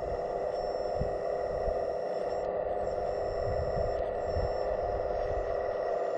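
Hydraulic pump of a scale RC construction model whining at a steady pitch, with faint low rumbles underneath.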